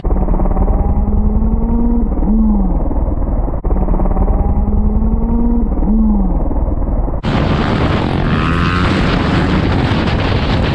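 Motorcycle engine noise. For the first seven seconds it is muffled, with the same slowly rising pitch and a quick sharp rise and fall played twice, as if looped. After that it turns clear and full, with street noise.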